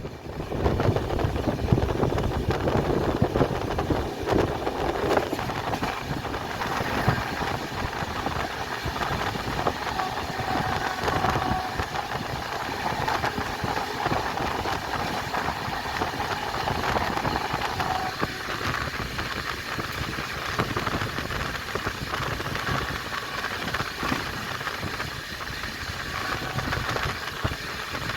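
Express passenger train running at high speed: a continuous rumble of wheels on rail with rapid clatter throughout. A faint steady whine sounds in the middle stretch, then fades.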